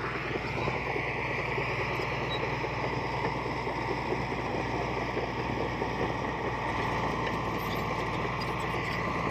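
Diesel engine of heavy earthmoving machinery running steadily, with a slight rise in pitch about half a second in.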